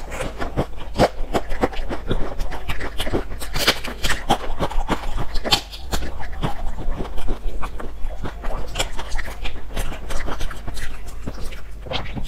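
Close-miked biting and chewing of a crumbly baked pastry with a sticky filling: a dense, irregular run of sharp crunches and wet mouth clicks.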